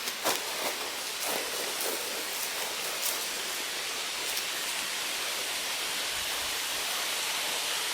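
Steady, even hiss, with a few faint clicks in the first two seconds.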